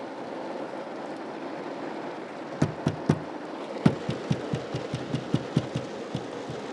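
Steady rain noise heard from inside a car, and about two and a half seconds in a run of sharp knocks begins, a few at first and then about four to five a second.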